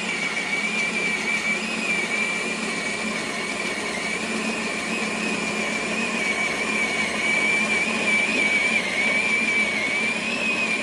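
Asani electric conical burr coffee grinder running and grinding, its motor giving a steady high whine over a low hum.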